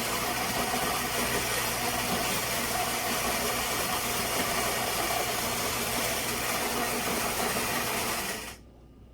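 Ceramic burr grinder of a Philips Series 3300 automatic espresso machine grinding coffee beans: a steady grinding noise with a low hum underneath that cuts off sharply near the end.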